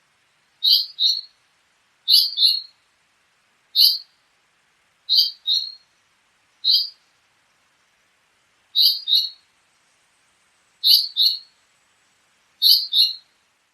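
A songbird calling: eight short, high chirps, most of them quick double notes, repeated every one and a half to two seconds with a longer pause midway.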